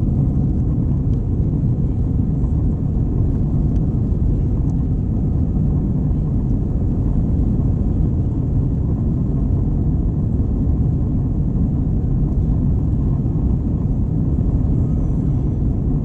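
Steady low rumble of an Airbus A321 in flight, engine and airflow noise heard inside the passenger cabin.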